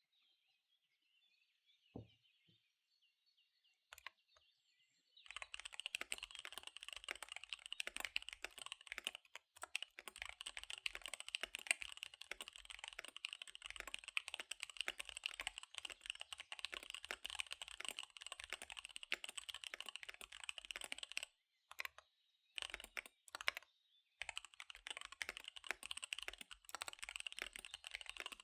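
Fast typing on a KBD75 V3 mechanical keyboard with SP-Star Dark Magic Girl tactile switches and DSA keycaps: a rapid, continuous run of keystrokes. It starts about five seconds in, breaks off for a couple of seconds with a few single keypresses near the end, then picks up again.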